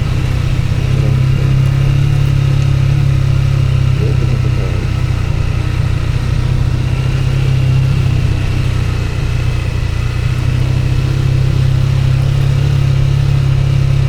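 Steady, loud rumble of a vehicle on the move: engine and road noise, with no change in pace.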